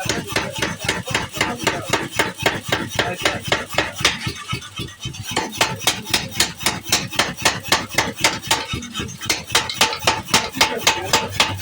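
Power hammer striking hot steel in a rapid, even rhythm of about four to five blows a second, reshaping a plowing tool.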